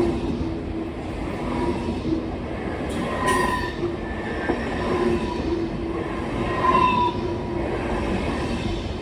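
A train rolling along the track with a steady rumble, broken by on-and-off squealing tones from the wheels, and a sharp click about three seconds in.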